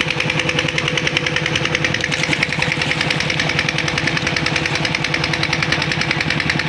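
Old 1980s tractor engine running steadily, with a rapid, even knocking beat.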